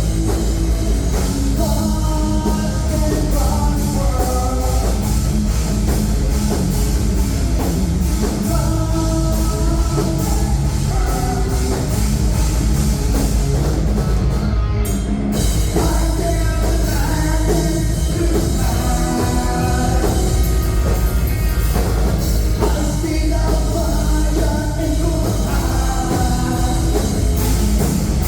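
Rock band playing live and loud: drum kit, guitars and bass under a singer's vocal line.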